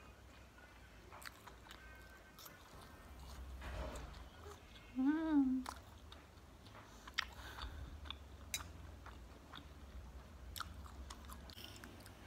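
A person chewing a mouthful of fried corn grits (ampog goreng) close to the microphone, with scattered soft mouth clicks. About five seconds in comes a short hummed "mm" that rises and falls.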